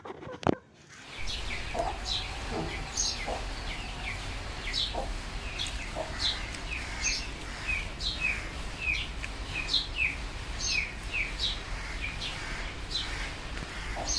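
Birds chirping: repeated short, high chirps that fall in pitch, about two a second, over a steady low hum. A single sharp knock comes about half a second in.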